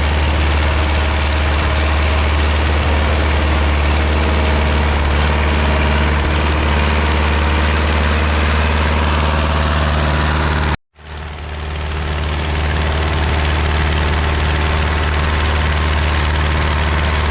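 Ursus C-360 tractor's four-cylinder diesel engine running steadily under heavy load while cultivating, working hard. It cuts out for an instant about eleven seconds in and then carries on the same.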